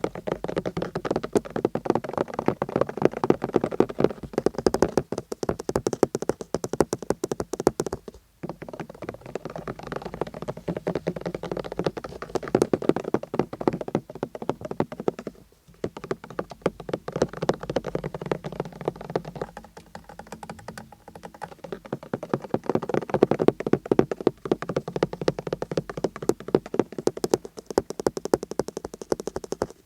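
Fast, continuous tapping on a car's surfaces, many taps a second, with two brief pauses, about a quarter and halfway through.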